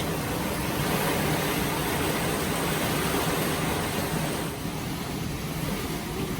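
Tropical-storm wind and heavy rain: a steady rushing noise that eases slightly after about four and a half seconds.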